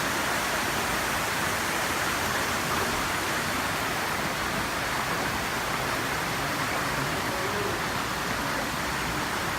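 Falling water of a waterfall, rushing steadily and evenly.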